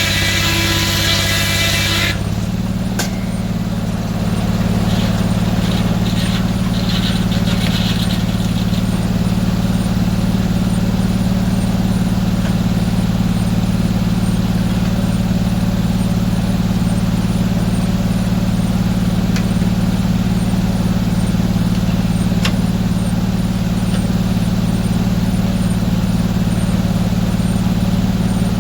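Portable sawmill's engine running steadily with a low hum. About two seconds in, a loud, high hissing and whining noise, typical of the blade cutting through a log, stops suddenly, leaving only the engine.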